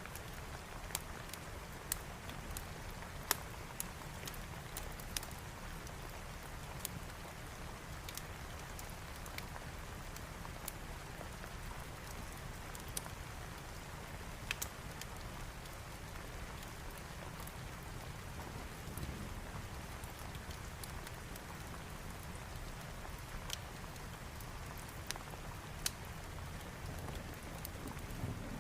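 Steady rain mixed with a wood fire crackling, with scattered sharp pops at irregular intervals over the even hiss.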